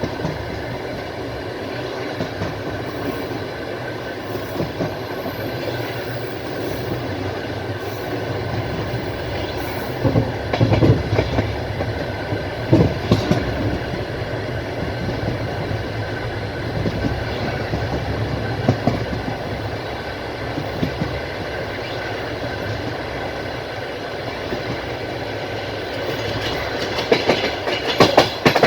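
Passenger train carriage running at speed, heard from inside by the window: a steady rumble of wheels on rail with the clatter of wheels over rail joints. Louder bunches of clacks come about ten seconds in, around thirteen seconds, and again near the end.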